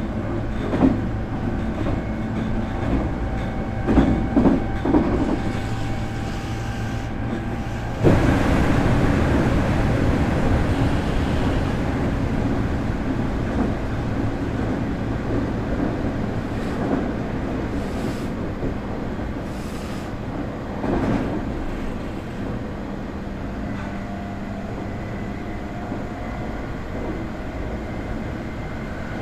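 Onboard running sound of a Nankai 8300 series train with Toyo Denki TDK-6315-A totally enclosed induction motors and Hitachi IGBT VVVF control. Wheels knock over rail joints under a faint steady motor tone. About eight seconds in, a sudden louder rush of running noise starts and slowly fades.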